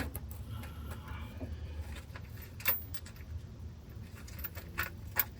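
A few sharp metallic clicks and clinks of hand tools on metal, spaced out, over a low steady hum.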